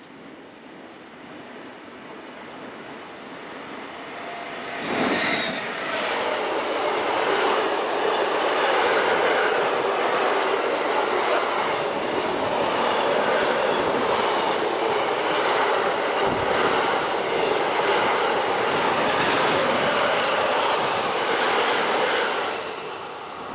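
A train approaches and passes close by. A brief high-pitched shriek sounds about five seconds in, then the wheels on the rails make a loud, steady rush for about seventeen seconds, dropping away near the end.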